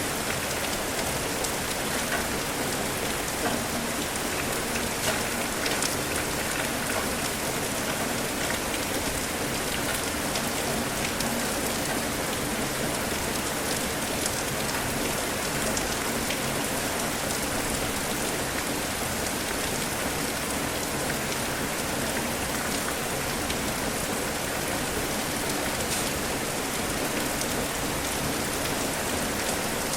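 Steady rain falling on surfaces, with occasional single drops ticking out of the even hiss.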